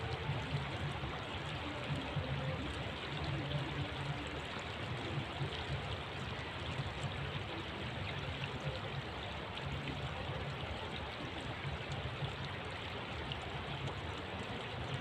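Running water, a steady rushing and trickling that does not let up.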